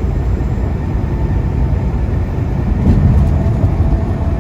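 Semi truck driving at highway speed: a steady engine and road-noise rumble that swells briefly about three seconds in.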